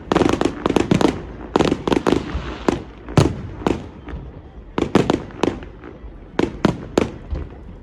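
Fireworks going off: a rapid flurry of sharp bangs and crackles for about two seconds, then single bangs every half second to a second.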